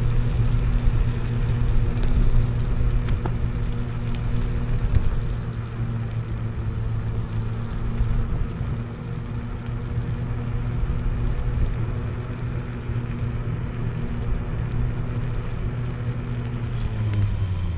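IO HAWK Legacy electric scooter running off-road: a steady low hum over rumble and noise, falling in pitch near the end.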